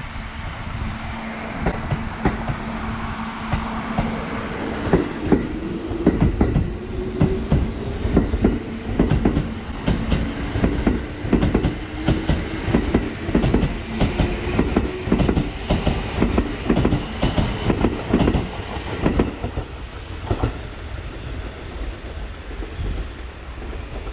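Kintetsu 21000 series Urban Liner Plus limited express pulling out and gathering speed: a quick run of wheel clacks over the rail joints with a motor hum slowly rising in pitch, thinning out near the end as the last cars pass.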